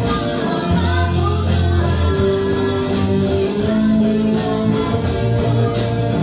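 A live rock band playing a song: electric guitar, bass guitar and drums, with a singer over them.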